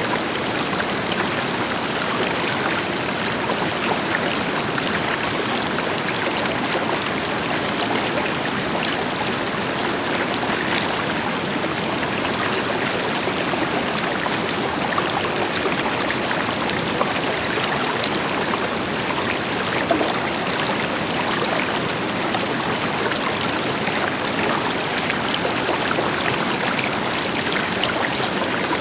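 A river flowing over rocks, steady rushing and splashing water, with a distant waterfall adding a deeper rush underneath.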